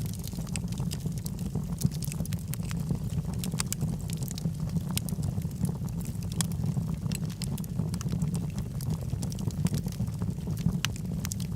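Wood fire burning in a fireplace, with a steady low rumble of the flames and frequent irregular sharp crackles and pops from the burning logs.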